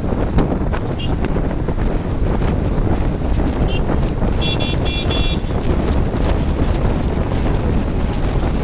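Wind buffeting the microphone during a motorcycle ride in traffic, a loud, steady rumble throughout. About halfway through, a vehicle horn gives a few quick beeps.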